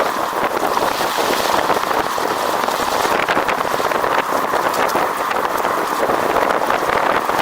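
Steady rushing road noise while riding, with a dense crackle like tyres through wet slush after snow, and wind on the microphone.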